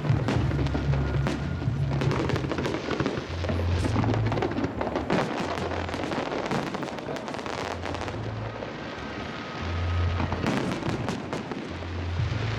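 Aerial fireworks bursting and crackling in rapid, dense pops, over music with a deep, changing bass line.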